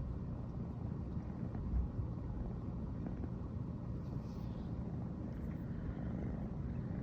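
American Shorthair cat purring steadily, a low, even rumble picked up close.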